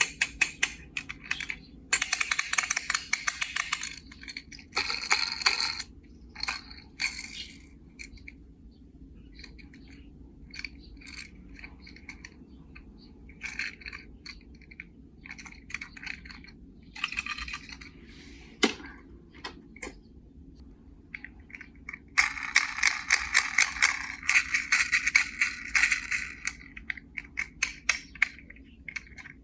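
Small die-cast toy cars and a plastic carry case being handled: irregular clicking and clinking, with dense bursts of rattling a few seconds in and again for several seconds about two-thirds through.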